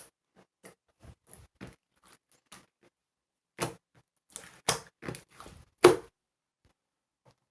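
Clear slime being pressed and stretched by hand, giving scattered sticky clicks and pops, with a louder run of pops about halfway through that dies away near the end.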